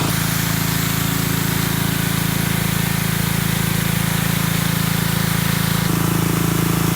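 Diesel engine of a car-washing machine running steadily, with a hiss above the engine note. The engine's tone shifts slightly about six seconds in.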